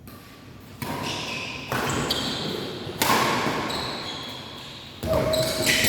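Badminton rally in a reverberant hall: four sharp racket hits on the shuttlecock, each echoing off the walls as it dies away. Short squeaking tones sound between the hits.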